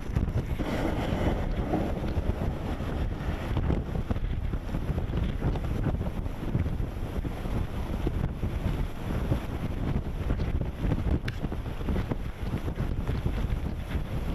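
Strong blizzard wind blowing across the microphone: a low rumbling noise that rises and falls in gusts.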